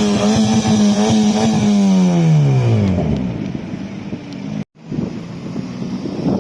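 Car engine revved hard and held high for about two seconds, then falling back toward idle around three seconds in. The sound cuts out suddenly for a moment near the end.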